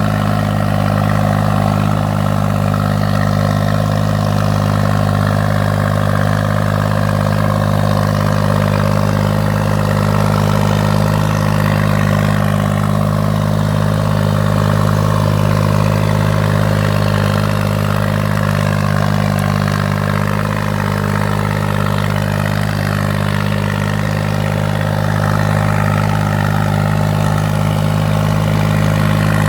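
New Holland 6500 tractor's diesel engine running steadily at a constant speed, with a deep even hum, dipping slightly about two-thirds of the way through.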